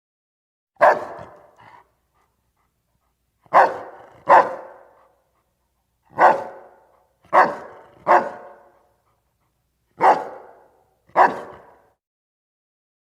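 A dog barking: eight single barks in ones and twos, spaced about a second or more apart, each trailing off in a short echo.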